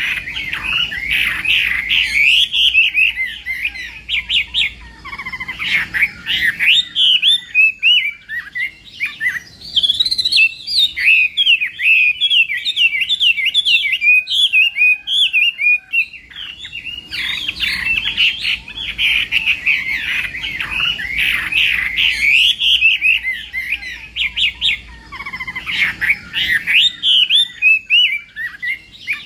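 Chinese hwamei singing a long, rapid, varied song of quick whistled notes that slide up and down, broken by two brief lulls.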